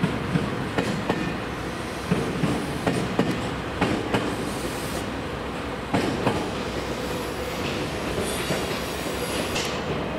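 JR Kyushu 817 series electric local train rolling over station trackwork, its wheels clunking irregularly over rail joints and points. A high wheel squeal sets in about two-thirds of the way through.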